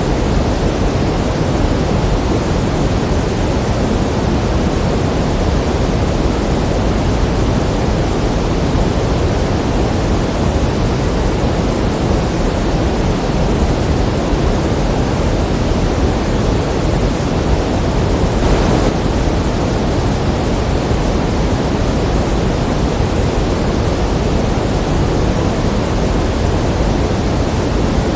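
Steady pink noise: an even, unbroken hiss, fuller in the low end than in the highs.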